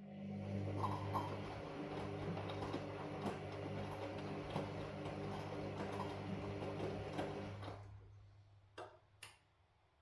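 Washing machine motor turning the drum, a steady hum with many small ticks and rattles, winding down and stopping about eight seconds in. Two sharp clicks follow about a second later.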